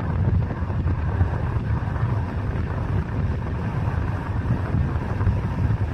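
Wind buffeting the microphone: a continuous, gusty low rumble.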